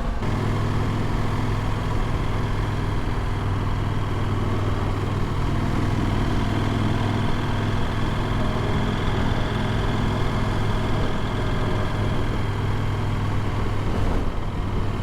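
Adventure motorcycle's engine running at a steady speed while riding, as heard from the rider's own bike.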